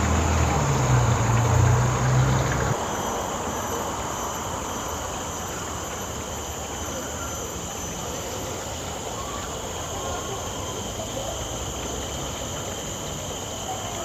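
Insects droning steadily in several high, unchanging tones. A loud low rumble fills the first few seconds and cuts off suddenly.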